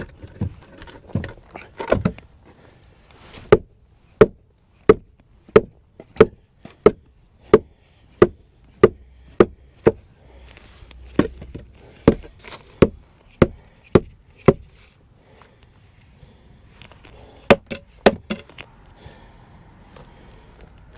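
Hammer blows on wood, a steady run of strikes at about three every two seconds, then a short pause and a few more strikes near the end.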